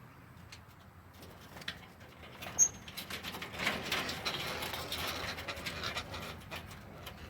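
Small caged parrots stirring and calling. There is a sharp click a little over two seconds in, then a stretch of scratchy, rustling sound with quick clicks through the middle, easing off near the end.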